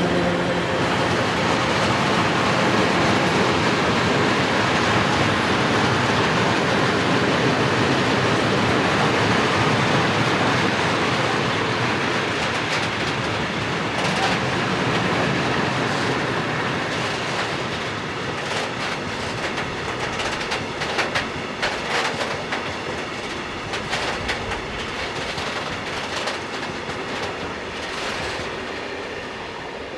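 A train passing at speed on the main line: a loud steady rumble and rush of wheels on rail. About halfway through, repeated clicks of wheels over rail joints come through as it goes by, and the sound slowly fades as the train moves away.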